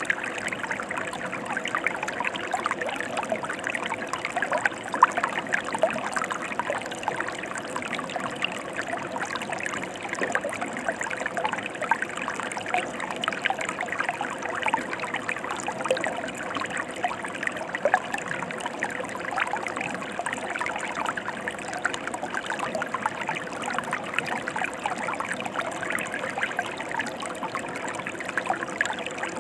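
Mountain stream water flowing steadily over rocks, an unbroken rush dotted with small trickling and splashing sounds.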